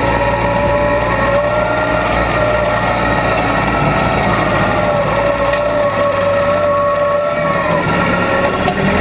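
Case 580B backhoe running steadily, with a whine that wavers in pitch over the engine and dips briefly near the end.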